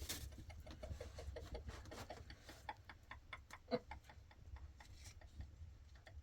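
Faint, irregular light clicks and taps, several a second, with one louder knock about three and a half seconds in.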